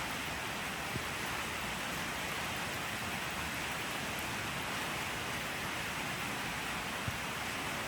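Steady rain falling, an even hiss with two faint drop ticks, about a second in and near the end.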